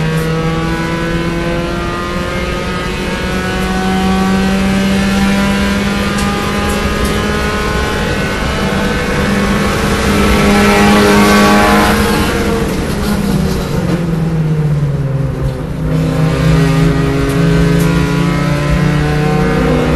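Small four-cylinder B-Spec race car engine heard from inside the cabin, pulling hard with its pitch slowly rising for about twelve seconds, then dropping as the car slows for a corner and running on at lower revs.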